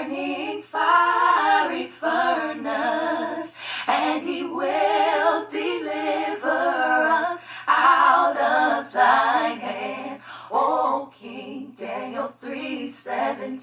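A woman singing a scripture verse alone and unaccompanied, in long phrases with vibrato.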